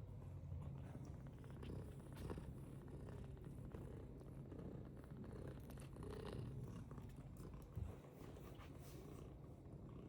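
British Longhair cat purring steadily, a faint low continuous purr, with a brief thump about eight seconds in.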